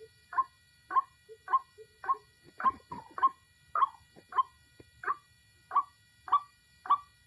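White-breasted waterhen calls: a short, sharp note repeated steadily about once every 0.6 seconds, with a brief rustling noise about three seconds in.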